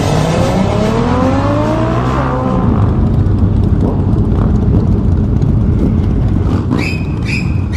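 Motorcycle engine revving up, its pitch rising for a couple of seconds, then giving way to a steady rush of wind and engine noise at speed.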